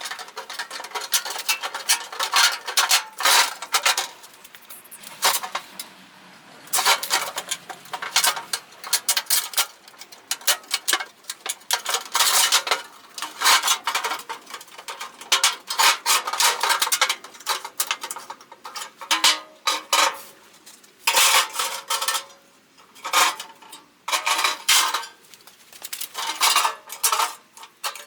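Thin sheet metal of an 18-litre tin can clanking and clinking as it is worked by hand, with many sharp metallic knocks and scrapes coming quickly and irregularly, broken by short pauses.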